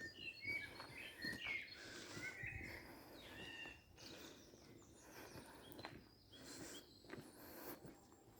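Faint birdsong: short chirps and whistled notes, busiest in the first few seconds, over quiet woodland background.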